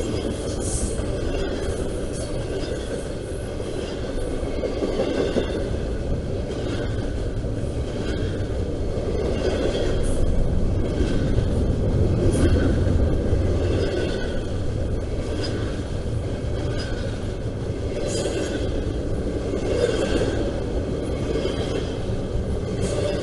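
Intermodal freight train rolling past: a steady rumble of wheels on rail, swelling a little about halfway through.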